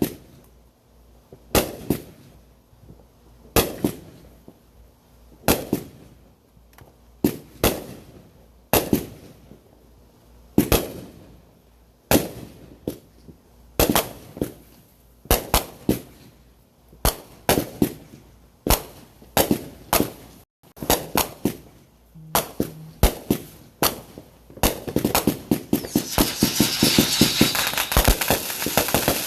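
Consumer fireworks going off: a series of sharp bangs every second or two, building near the end into a dense rapid crackling barrage.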